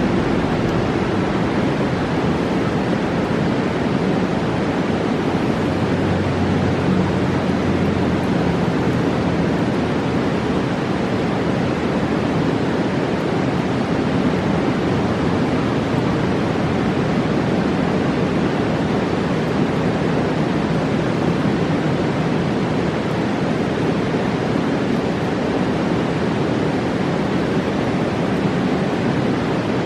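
Fast-flowing mountain river rushing steadily, a loud even roar of whitewater.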